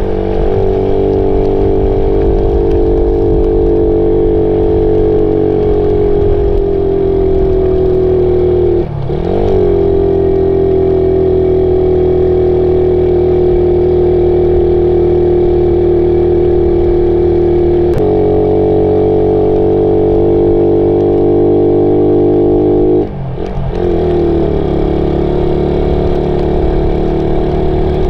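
Suzuki Raider 150 single-cylinder four-stroke motorcycle engine running steadily under way, its pitch sagging slowly. Twice, about 9 and 23 seconds in, the revs briefly drop and pick up again.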